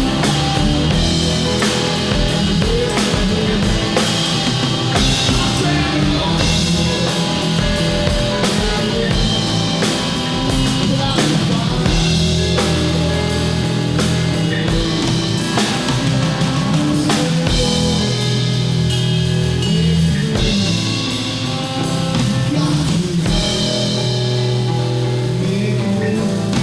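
Live band playing a blues-rock song, with a drum kit keeping a steady beat under the other instruments.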